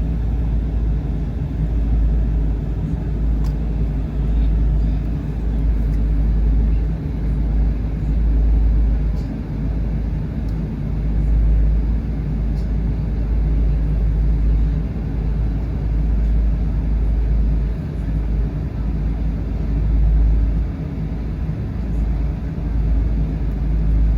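Steady, loud rumble of engine and airflow noise heard inside the cabin of a Boeing 777-300 airliner, with a few faint ticks.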